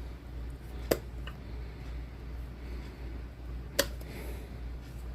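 Two sharp clicks about three seconds apart as a screwdriver works at the snow globe's fill opening, over a steady low hum.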